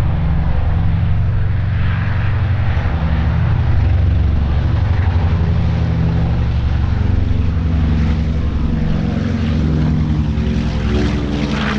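Propeller aircraft engine running with a loud, steady, low droning hum and a wash of engine and air noise.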